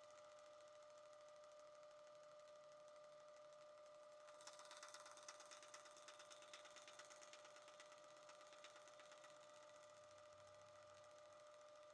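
A mini belt sander's small electric motor runs steadily with a faint, even whine, driving a polishing wheel. About four seconds in, a carving-knife blade is held against the wheel, adding a scratchy hiss that lasts a few seconds.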